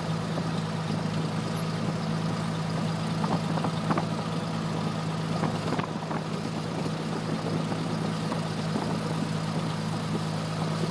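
Cessna 172F's Continental O-300 six-cylinder engine running at low taxi power, a steady drone heard through the cockpit intercom recording, with a few faint clicks.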